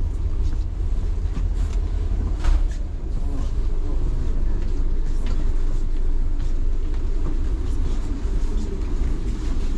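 Local passenger train heard from on board: a steady low rumble with scattered light knocks and rattles, one sharper knock about two and a half seconds in.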